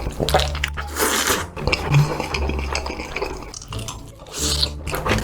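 Irregular scraping, rubbing and crunching noises of food being handled and eaten close to the microphone.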